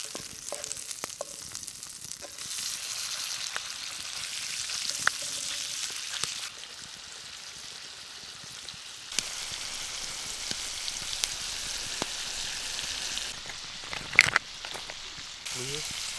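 Mussels frying in butter in a cast-iron skillet over a campfire, a steady sizzle with scattered small clicks and a sharp knock about fourteen seconds in.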